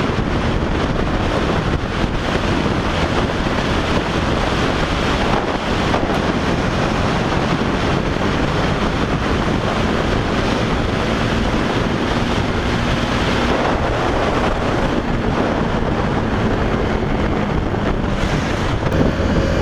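Steady wind noise rushing over the microphone of a moving motorcycle, with the KTM 390 Duke's single-cylinder engine running under it as a faint steady tone.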